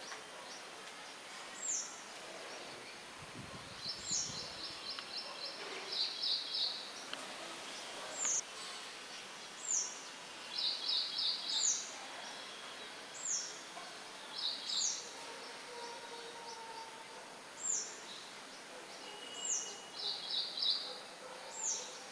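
Songbirds calling over a steady rustle of light wind in leaves. A high, quick downward-sweeping note repeats every second or two, mixed with short bursts of rapid trilled notes. A brief low rumble comes about three to four seconds in.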